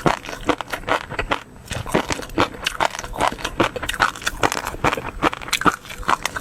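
Close-miked eating sounds: a person chewing with quick, wet mouth clicks, several a second, in an uneven rhythm.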